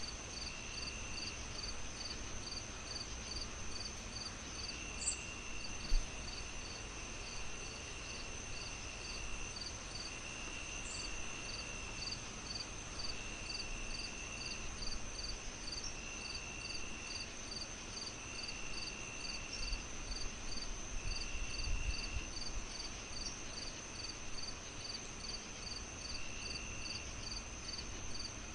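Crickets chirping in an even rhythm, about three pulses a second, over a steady high trill and a lower trill that comes and goes. Beneath them a fireplace rumbles low, with a single sharp pop about six seconds in.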